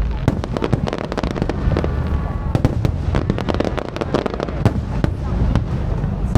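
Fireworks going off in rapid, irregular succession: many sharp pops and bangs crowding over one another above a continuous low rumble.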